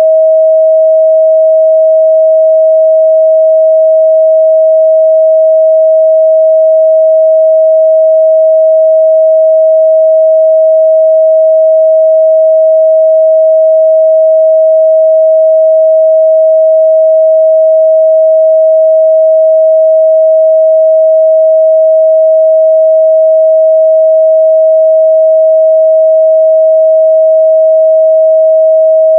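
A steady, unbroken 637 Hz pure sine test tone, loud and constant in pitch, used for checking the midrange response of speakers and headphones.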